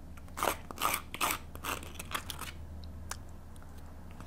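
Close-miked eating sounds: a run of crunchy bites and chewing in the first half, then a few small clicks.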